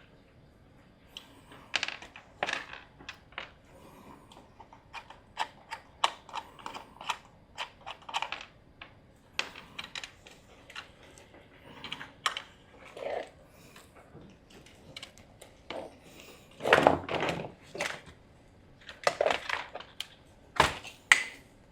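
Irregular light plastic clicks, taps and rattles as an LED shop light's housing and switch are worked apart by hand, with a few louder clatters about three-quarters of the way in.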